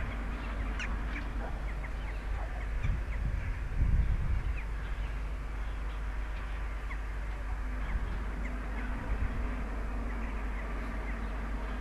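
Birds calling in short, scattered chirps over a low steady rumble.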